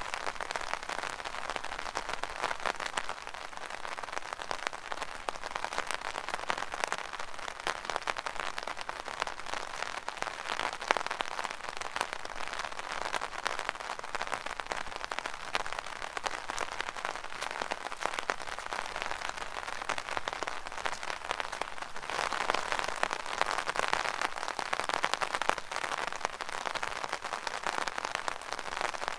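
Rain pattering steadily on an umbrella canopy, a dense crackle of many small drop impacts that grows a little heavier near the end.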